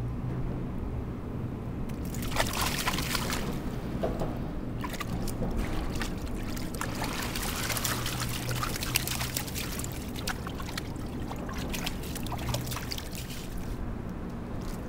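River water splashing and trickling in irregular bursts over a steady low rumble, starting about two seconds in and dying away near the end.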